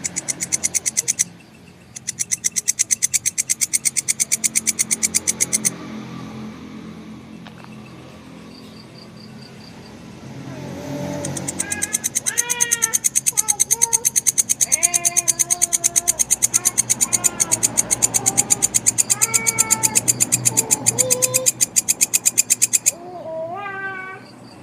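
Grasshopper stridulating in fast, even trains of high chirps, several a second. It pauses briefly near the start and again for several seconds around the middle. From about halfway, a voice makes several short wavering calls over the chirping.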